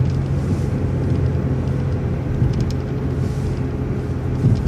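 City transit bus driving along, its engine and road noise making a steady low drone with a constant hum, with a few faint ticks.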